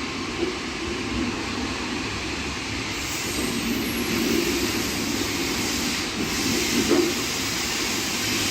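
Class 66 diesel freight locomotive running through the station: a steady low rumble under a broad hiss, growing louder about three seconds in.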